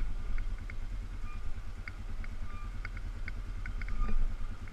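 ATV engine running with a steady, pulsing low rumble, with faint light clicks and rattles scattered over it.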